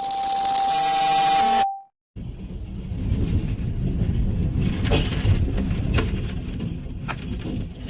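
A steady beeping tone over loud hiss for about a second and a half, cut off abruptly. Then strong storm wind rumbles and buffets the microphone, with scattered sharp knocks.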